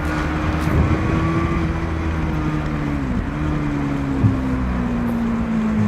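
Racing motorcycle engines on the circuit, heard as one steady drone whose pitch slowly sags, with small dips about three and four seconds in.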